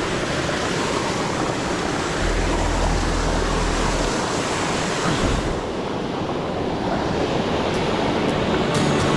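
Waterfall rushing, a dense steady noise of falling water, with music starting to come in near the end.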